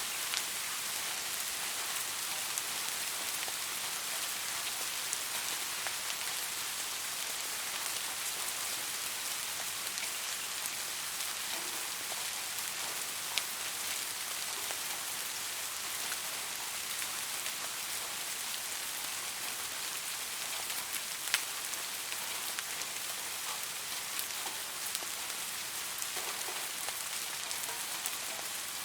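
Steady rain with individual drops ticking sharply now and then.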